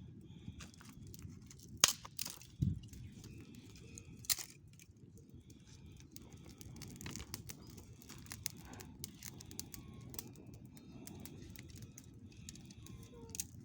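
Many small birds chirping over a low steady rumble, with a few sharp clicks in the first few seconds, the loudest about two seconds in.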